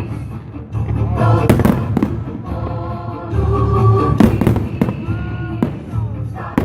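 Fireworks going off in several sharp bangs over a low rumble, with music playing.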